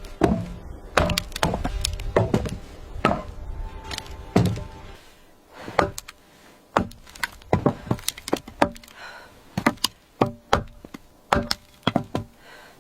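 A series of sharp wooden knocks and thuds, about one a second at first, then coming in quicker clusters.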